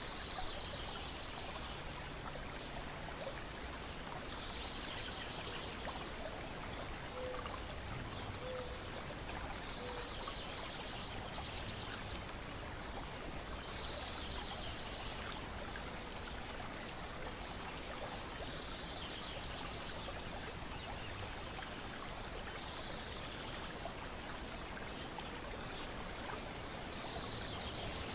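Lakeside nature ambience: a steady wash of water lapping against a shore, a high buzzy trill repeating every four to five seconds, and faint scattered crackling from a wood fire.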